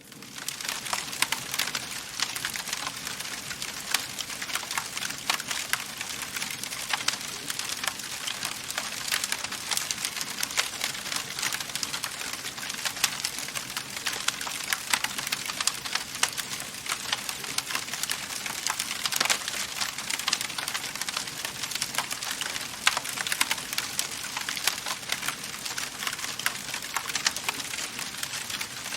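Wood fire crackling steadily: a dense hiss of small crackles with occasional louder pops.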